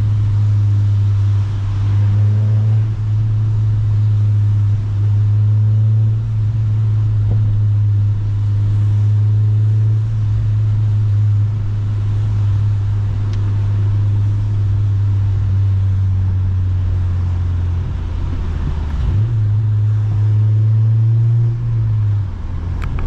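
Honda Civic Si's four-cylinder engine through a Rev9 cat-back exhaust, a steady low drone while driving, heard from inside the car. The pitch drops briefly and picks up again about 19 seconds in.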